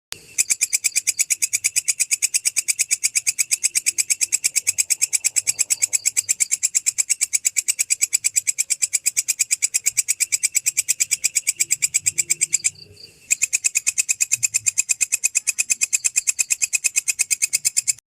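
An insect stridulating, cricket-style: a steady, rapid train of evenly spaced high-pitched chirp pulses, breaking off for about half a second roughly two-thirds of the way through before resuming.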